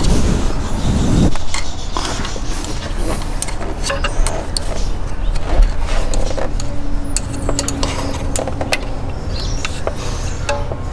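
Hand tools clicking and knocking in an engine bay as the accessory belt tensioner is levered back and locked in place, over a steady low rumble. A heavier low rumble comes in the first second or so.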